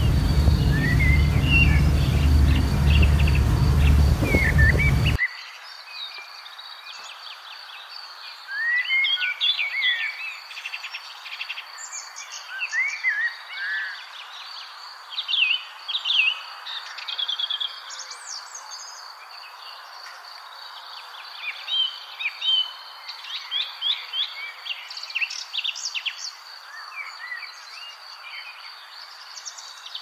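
Birdsong: many small birds chirping and trilling in quick, overlapping phrases over a steady high-pitched tone. For the first five seconds a loud low rumble runs under the birds, then cuts off suddenly.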